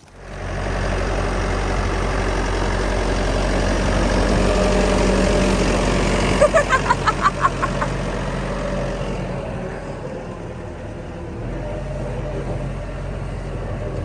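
A vehicle engine running steadily, starting suddenly. About six seconds in there is a quick run of about eight short, high chirps.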